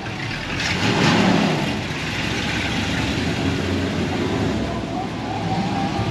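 A red C2 Corvette Sting Ray convertible's V8 running as the car drives past close by. It is loudest about a second in as it passes nearest, then settles to a steadier drone as the next car follows.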